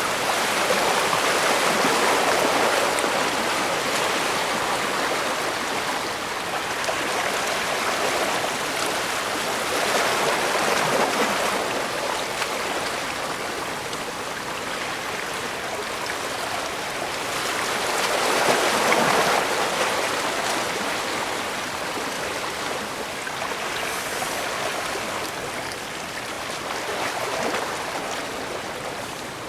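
Waves of a calm bay washing onto the shore: a continuous rush of water that swells to a louder surge about every eight to nine seconds, four times, then eases back.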